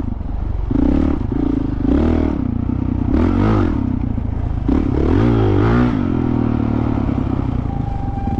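Dirt bike engine revving up and down several times, then running steadily at lower revs near the end.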